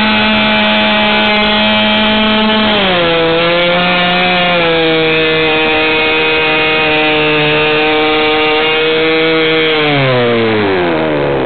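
Norvel .15 BB two-stroke glow model airplane engine swinging an 8x4 propeller, running loud and steady at high speed. About three seconds in it drops to a lower steady speed. Near the end it slows further and stops.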